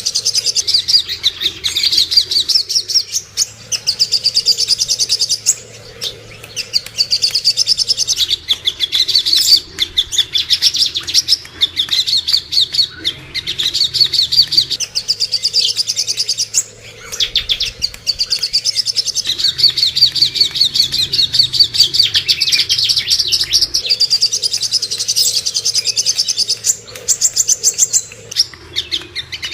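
Songbird singing a fast, dense chattering song, high-pitched, in long phrases of several seconds broken by short pauses.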